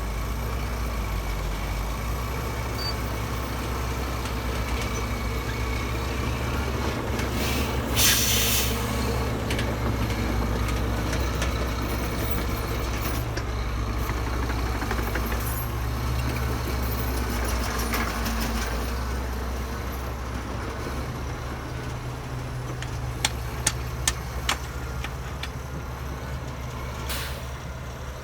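Heavy diesel earthmoving machinery running steadily with a low engine drone, a short sharp hiss about eight seconds in and again near the end, and a few sharp knocks a little after twenty seconds.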